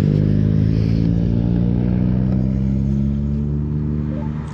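BMW R1200GS Rallye's boxer-twin engine running at steady revs, its pitch creeping slightly upward.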